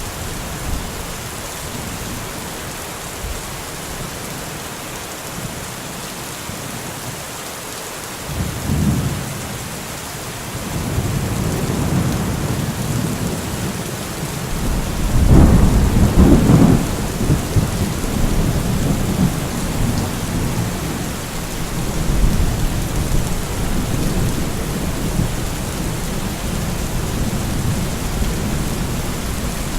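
Steady rain falling, with thunder rolling through: a low rumble starts about a third of the way in, builds to the loudest peal around halfway, then rumbles on more quietly.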